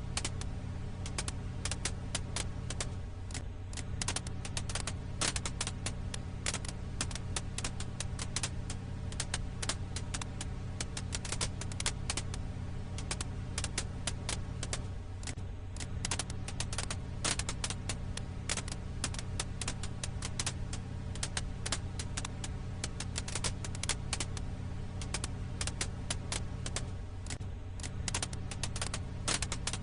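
Campfire crackle: dense, irregular pops and snaps of burning firewood over a steady low hum. The audio is a loop that repeats about every twelve seconds.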